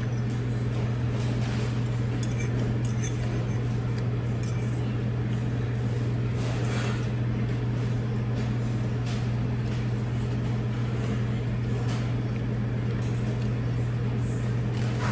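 Steady low mechanical hum, with faint scattered light clicks and clinks over it.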